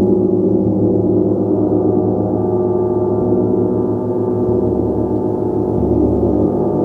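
Gong played continuously, a dense, sustained wash of overlapping deep tones that beat and swell slowly without distinct strikes.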